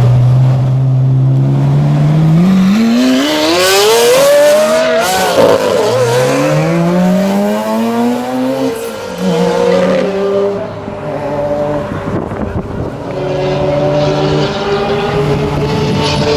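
A performance car's engine accelerating hard, its pitch climbing steeply, breaking at an upshift about five seconds in, then climbing again. After that, other car engines pull away more gently at lower revs.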